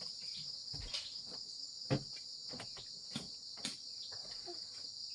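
Steady, high-pitched insect chorus, like crickets, with a scattering of light knocks and taps over it, the loudest about two seconds in.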